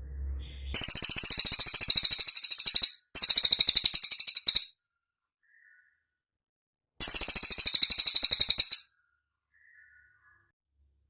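Cililin bird song: three fast, high rattling trills, each about two seconds long, with a soft short note between them.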